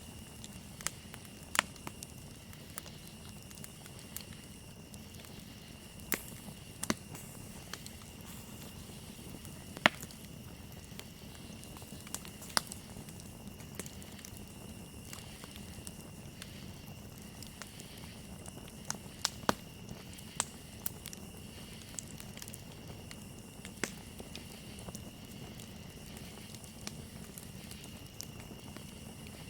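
Campfire crackling, with irregular sharp pops scattered through, over a steady high chirring of crickets.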